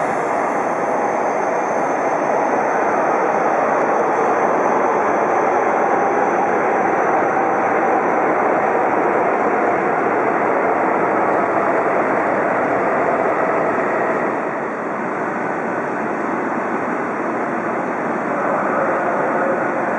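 Shinkansen train moving along the station tracks: a steady, loud rush of wheels, motors and air. A thin high whine fades away about halfway through.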